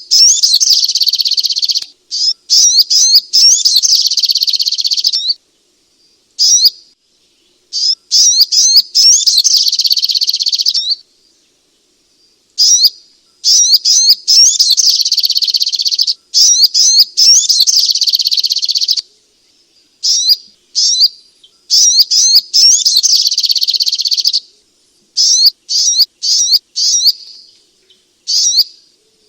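Sogok ontong, a spiderhunter, singing: runs of rapid, high-pitched chirping notes in phrases of one to several seconds, broken by short pauses.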